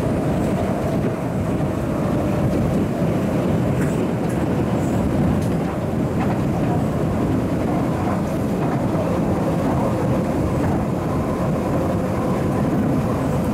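MTR East Rail Line MLR electric multiple unit heard from inside a passenger car while running: a steady rumble of wheels on rail with a faint steady whine from the traction equipment.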